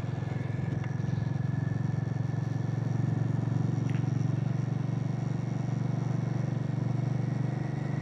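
Harley-Davidson X440's single-cylinder engine running steadily under way, swelling slightly about three to four seconds in before settling back.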